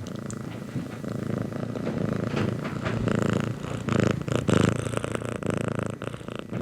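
Domestic cat purring close up: a rapid, steady rumble that swells and eases, loudest about four to five seconds in.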